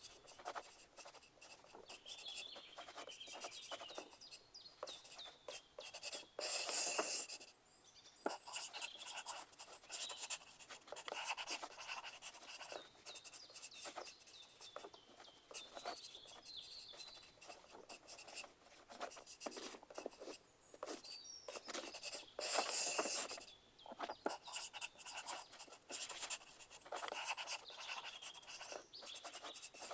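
Pencil writing on paper: a continuous run of short scratching strokes and light taps, with a couple of louder, longer scratching stretches about seven seconds in and again after about twenty-two seconds.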